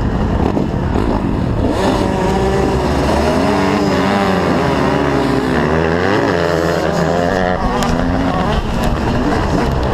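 Several motocross bike engines revving at once, their pitches rising and falling over one another, as riders hold revs waiting for a start.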